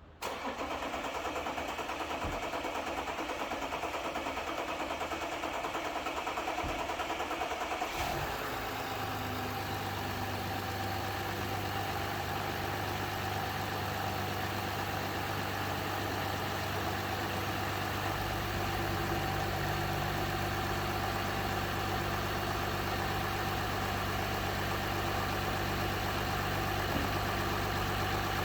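Audi SQ5 diesel V6 engine idling steadily, with a sudden shift in its sound about eight seconds in, after which it runs on with an even low hum.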